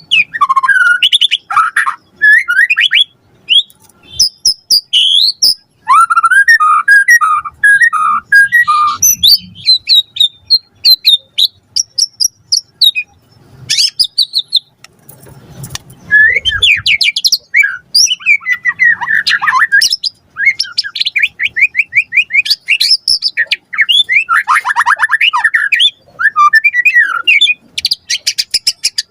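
White-rumped shama (murai batu) singing a long, fast, varied song of whistled notes, repeated phrases and trills, with a brief pause about halfway through.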